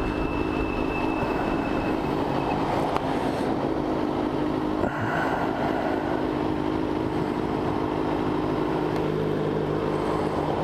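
Motorcycle engine running at a steady cruise while riding, with road and wind noise.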